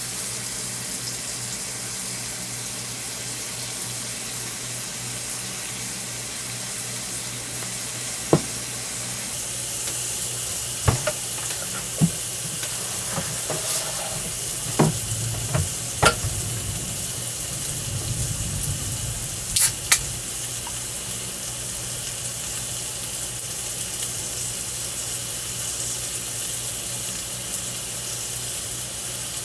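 Meat sizzling on a hot grill plate in a steady hiss, with several sharp clicks and taps partway through.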